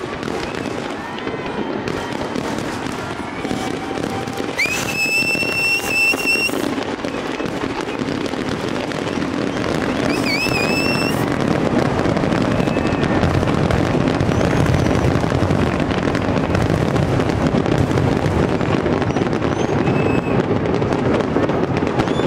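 Aerial fireworks display in its finale: a dense barrage of booms and crackling bursts that builds louder and deeper through the second half. Two long high whistles sound over it, about five and ten seconds in.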